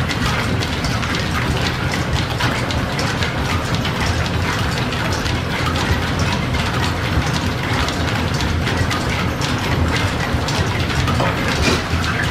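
Line-shaft-driven machine tool running in an old machine shop, a steady mechanical clatter of gearing and belts with many small rapid clicks.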